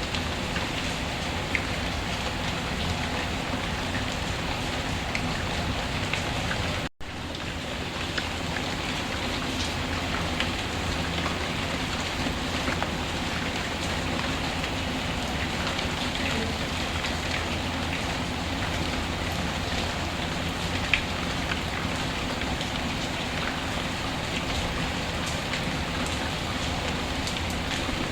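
Steady rainfall with the small, scattered pops and crackles of a wood fire. The sound drops out for an instant about seven seconds in.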